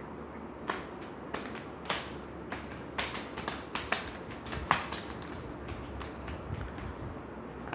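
Irregular light clicks and taps, about fifteen short sharp ones scattered over several seconds, over a low steady background hum.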